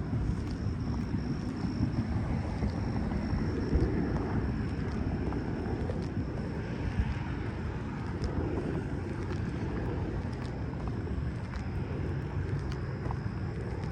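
Steady rumble of road traffic, with a thin, steady high-pitched tone above it.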